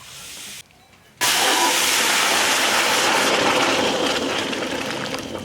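A hot cooking pot hissing loudly with steam, starting suddenly about a second in and slowly dying down.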